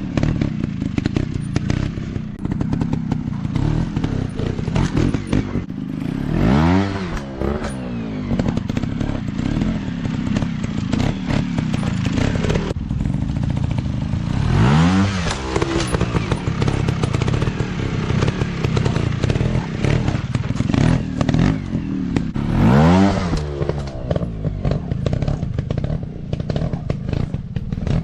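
Dirt bike engines running hard off-road, the revs rising and falling several times as the throttle is opened and closed, with clatter and scraping from the bikes over the ground.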